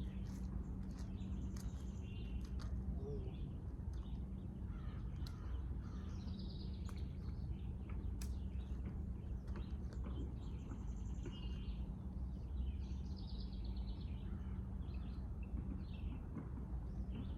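Birds calling and chirping in short, scattered notes over a steady low hum.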